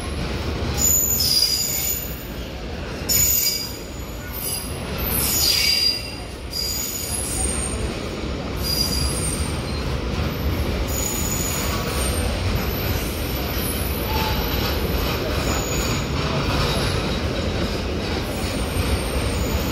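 Loaded container flat wagons of a freight train rolling slowly past, their wheels giving high-pitched squeals that come and go over a steady low rumble on the rails. The squealing is loudest in the first six seconds.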